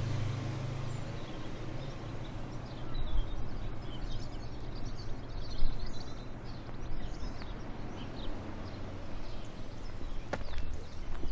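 Outdoor ambience: a low engine hum fading away, faint chirps of small birds in the middle, and a couple of footsteps near the end.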